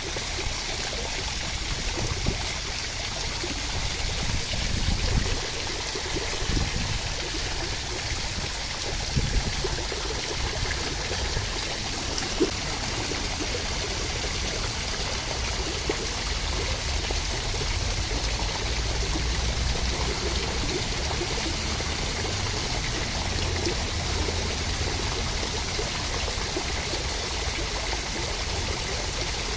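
Steady rain, a continuous even hiss of falling water with a few louder swells and small spikes in the first ten seconds or so.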